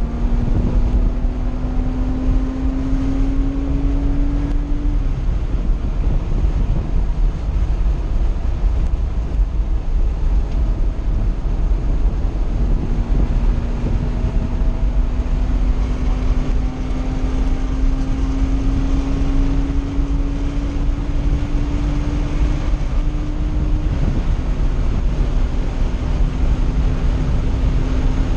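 A 1982 Porsche 911SC's air-cooled 3.0-litre flat-six, fitted with an SSI header and a Dansk 2-in-2-out muffler, running under load on track, heard from inside the cabin with wind noise. Its note climbs for the first few seconds and breaks off at about five seconds. It climbs again slowly for about ten seconds and drops to a lower steady pitch about four seconds before the end.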